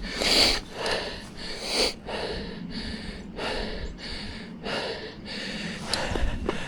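A man panting hard and fast, in short regular breaths: out of breath from exertion.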